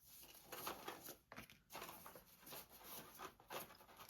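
Faint, irregular rustling of paper and card being handled.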